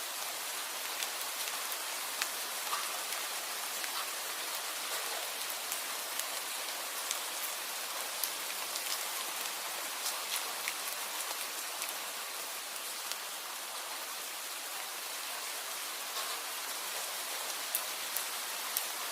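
Steady rain: an even hiss with many separate drops ticking sharply on a hard surface.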